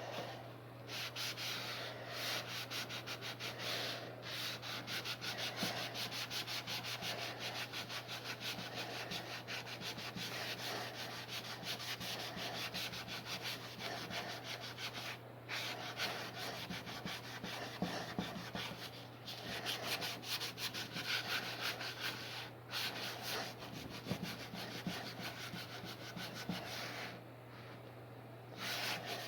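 Rapid back-and-forth hand scrubbing or sanding strokes, with a few brief pauses, over a steady low hum.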